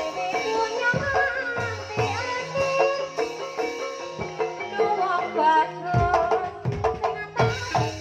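Javanese gamelan music: metallophones sound steady notes under a gliding melody line, punctuated by kendang drum strokes, with a quick run of drum strokes about six seconds in.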